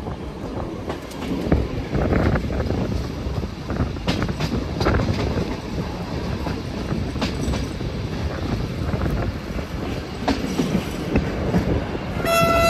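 A passenger train rolling in, its wheels clicking over the rail joints with a continuous rumble. Near the end comes a brief high-pitched tone.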